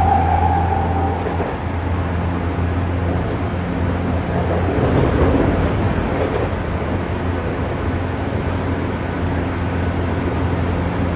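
Saitama Railway 2000 series electric train running, heard from inside the car: a steady rumble of wheels on rail with a low motor hum. A higher whine fades out about a second in.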